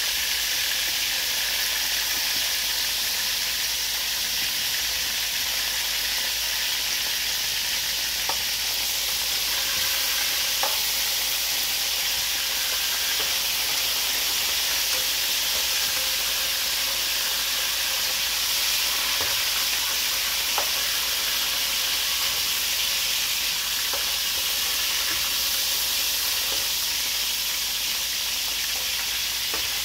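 Two whole pigeons frying in hot oil in an aluminium pot, a steady high sizzling hiss, with a few faint clicks as a slotted spatula turns them.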